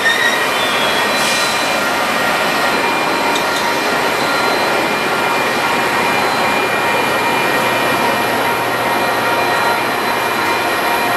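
Metra bi-level gallery commuter cars rolling past on steel rails: a loud, steady rush of wheel and rail noise, with faint thin wheel-squeal tones above it.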